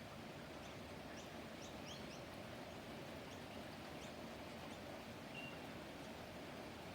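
Faint chirps of small garden birds: a cluster of short, high chirps between about one and two seconds in, and a single short whistled note a little after five seconds, over steady background noise.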